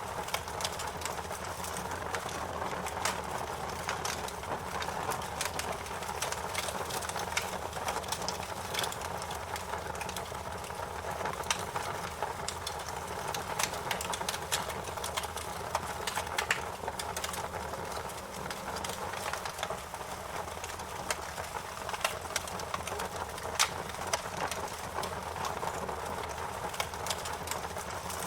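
Wood fire crackling: a steady rush of flames with frequent, irregular sharp pops and snaps.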